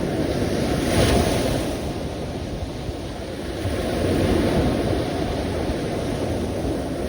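Sea waves washing in, a steady rush that swells about a second in and again around four seconds, with some wind rumble on the microphone.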